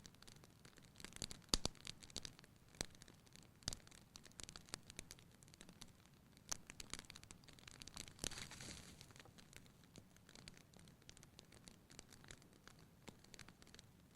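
Fire burning in a fireplace, crackling with irregular sharp pops; a few louder pops come in the first four seconds, and there is a brief hiss about eight seconds in.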